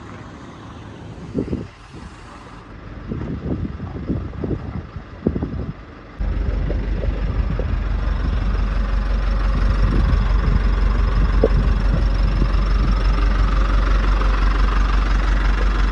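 Irregular low thumps and rumble, then about six seconds in a large truck's engine comes in suddenly and runs steadily, with a hiss higher up.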